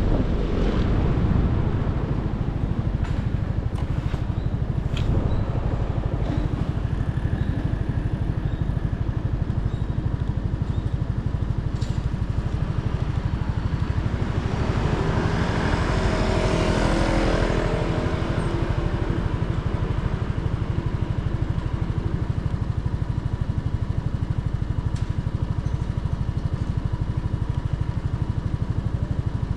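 Motorcycle engine running while riding, a steady low rumble with road noise. About halfway through, a louder sound swells and fades over a few seconds.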